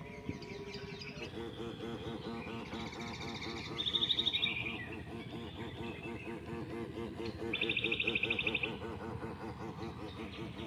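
Two short, loud, rapidly pulsed bird trills, about four seconds apart, over a steady fast-pulsing background sound.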